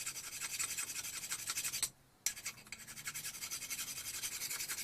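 Vintage hand drill turned by hand, boring an auger bit into wood: a fast, even run of scraping strokes, several a second, that pauses briefly about two seconds in and then carries on.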